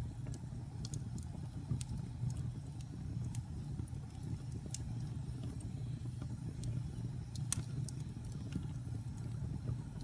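Wood fire burning in a fireplace: a steady low rumble of the flames with scattered sharp crackles and pops, one louder pop about three quarters of the way through.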